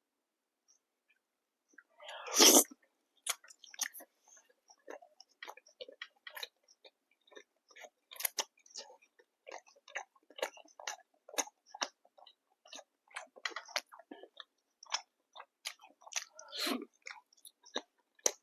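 A person biting into food and chewing it close to the microphone. One loud bite comes about two seconds in, then chewing with many short clicks, and another bite comes near the end.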